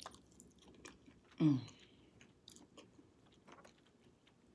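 Mouth chewing food, with many small wet clicks and smacks. About a second and a half in, a short vocal sound falling in pitch, like an "mm".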